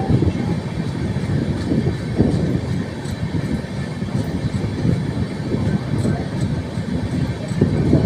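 Train running on the rails: a steady, dense rumble of the carriages, with faint scattered ticks and rattles.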